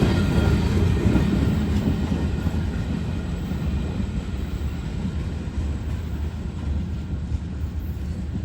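A short local freight train's cars rolling away on the rails after the last car has passed, a steady rumble that slowly fades as it recedes.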